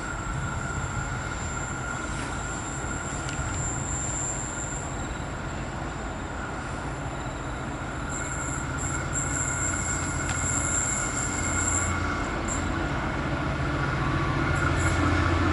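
V/Line diesel locomotive-hauled train approaching and running past, a steady rail rumble that grows slowly louder. From about eight seconds in, high steady squealing tones from the wheels join it.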